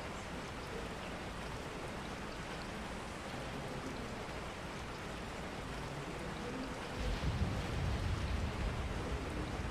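Steady rain falling. A low rumble joins in about seven seconds in and carries on to the end.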